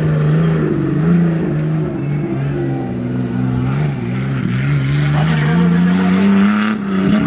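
Off-road 4x4's engine running hard under load on a dirt track, its note wavering with throttle, sagging around the middle and then climbing steadily near the end.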